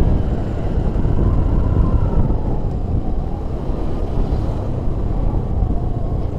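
A vehicle driving along a road: a steady low rumble of engine and road noise, with a faint whine that slowly sinks in pitch partway through.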